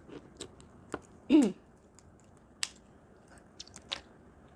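People eating seafood boil and noodles close to the microphone: scattered small clicks and chewing sounds. One short pitched sound, falling from high to low, stands out about a second and a half in and is the loudest event.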